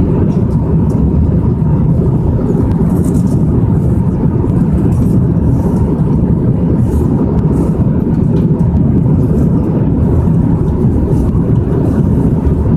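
Airliner cabin noise in flight: a loud, steady rumble of engines and airflow with a faint steady hum.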